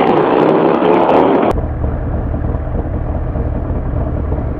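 Suzuki GSX-R600 sportbike engine accelerating with wind rush, its pitch climbing. About a second and a half in the sound changes abruptly to a steady low rumble.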